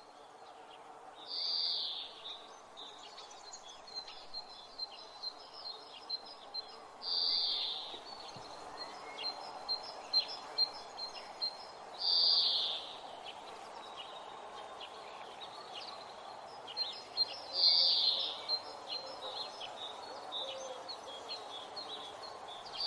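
Birds calling: a louder high call about a second long repeats about every five seconds, with quick series of short chirps in between, over a steady faint background noise.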